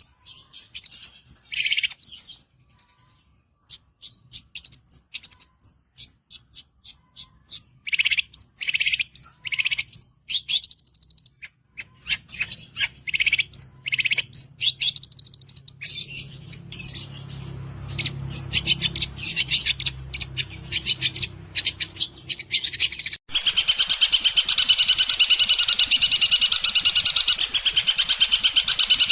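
Long-tailed shrike (cendet) singing in bursts of sharp, short, high chips and notes with pauses between. About 23 seconds in, the sound cuts abruptly to a dense, fast, unbroken trill.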